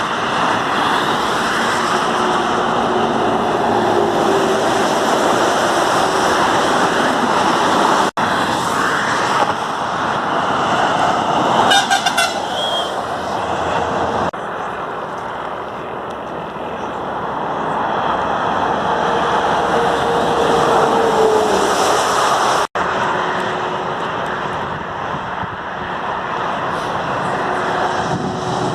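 Heavy trucks passing on a busy highway with steady road noise, truck horns sounding several times. The sound cuts out abruptly twice.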